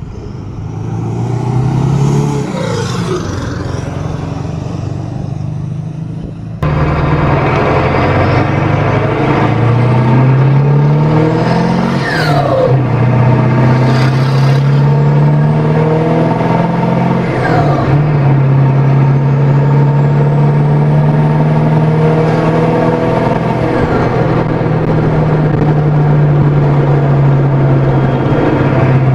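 Ford 7.3 Powerstroke V8 turbodiesel running through a custom open boom-tube exhaust, loud, its pitch rising and falling as the revs go up and down. A high turbo whistle climbs slowly and cuts off sharply twice as the throttle is let off. About six seconds in the sound jumps suddenly louder.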